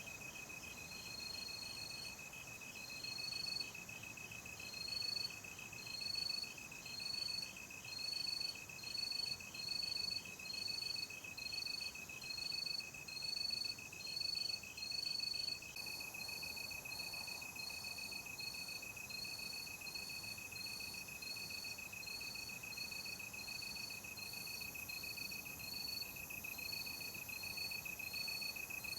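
Night insects, crickets, calling together: one gives a continuous high trill while another repeats short, higher chirps about once a second. A pulsing layer of calls beats along with them until about halfway through, then stops.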